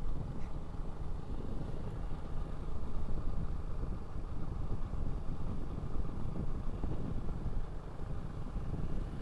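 Motorcycle running at a steady speed, its engine and wind noise blending into a steady low drone.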